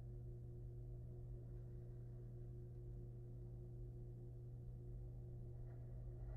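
Steady low electrical hum with faint steady tones above it, the background noise of a nest-box camera's microphone; a faint brief rustle comes near the end.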